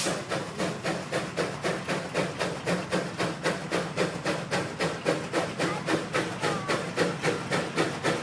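1905 Case 20-horsepower steam traction engine working hard under load, its exhaust chuffing in a steady rhythm of about five beats a second.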